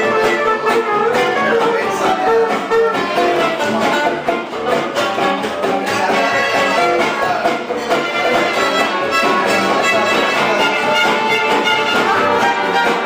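Live band music playing steadily, with a melody line over a regular beat.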